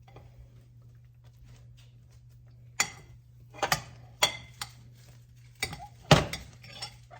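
Dishes and kitchen utensils clinking and knocking as food is dished up: quiet at first, then a handful of sharp knocks from about three seconds in, the loudest a little after six seconds.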